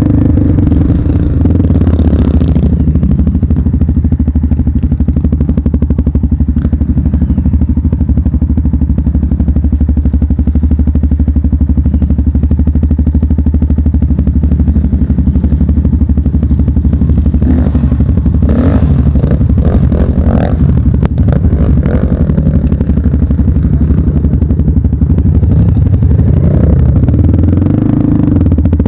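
Motorcycle engine running steadily under way on a trail, with clattering and scraping about two-thirds of the way through.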